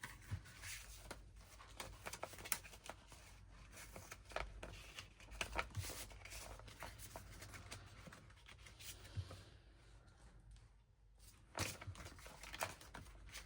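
Paper pieces being handled and shuffled: faint rustling with scattered small clicks and taps, a little louder near the end.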